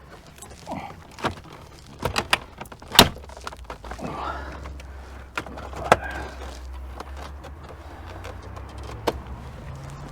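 Plastic interior trim being handled and clipped into place inside a car: a series of sharp clicks and knocks, the loudest about three seconds in. A low steady hum runs underneath.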